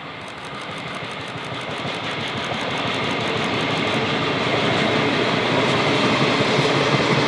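Passenger train approaching and running past along the track, its noise growing steadily louder as it nears.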